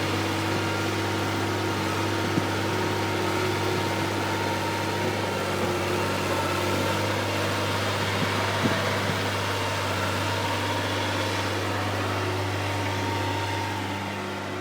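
Heavy diesel engine running steadily at an unchanging speed, with a deep, even hum. Two brief clicks are heard, one a couple of seconds in and one past the middle.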